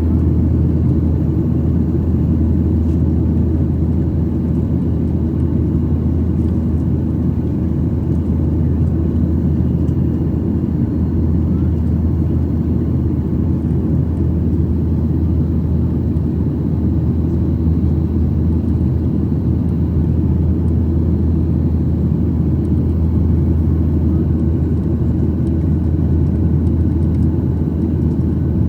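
Steady, loud rumble inside the cabin of a Boeing 737-800 under power: the CFM56-7B jet engines and the rushing air, with no change in pitch.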